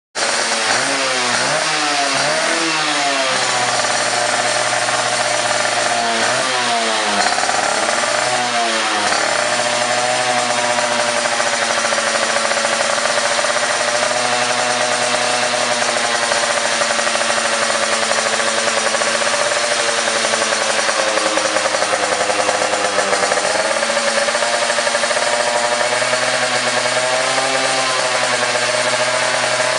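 Suzuki RC100 two-stroke single-cylinder motorcycle engine running through an aftermarket racing exhaust, with a crisp note. It is blipped up and down several times in about the first nine seconds, then held at a steady, slightly wavering idle.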